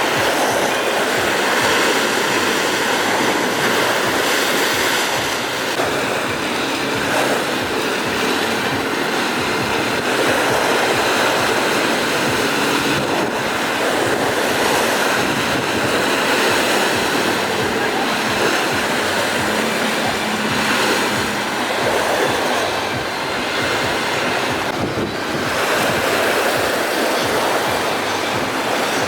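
Rough sea in strong wind: waves breaking and wind rushing steadily, with wind buffeting the microphone.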